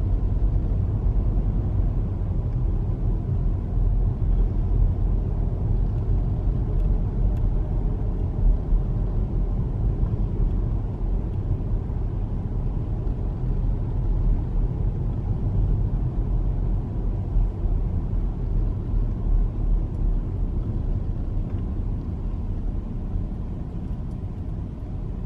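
Steady low road rumble and engine noise heard from inside a car driving along a road.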